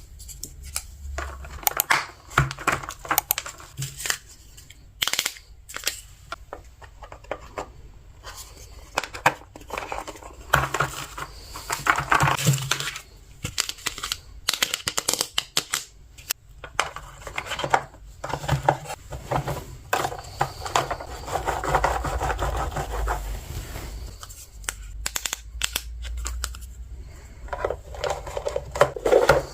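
Small plastic toy pieces being handled: a string of irregular sharp clicks and taps with rustling between them, from unboxing and fitting together a miniature plastic kitchen vending toy car.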